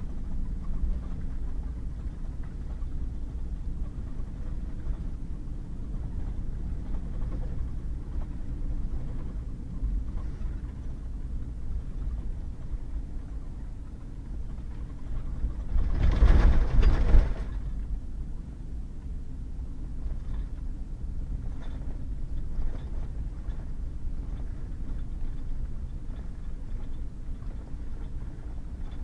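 Pickup truck driving on a wet, muddy gravel road: a steady low rumble of engine and tyres, with one louder rushing noise lasting about a second and a half a little past halfway.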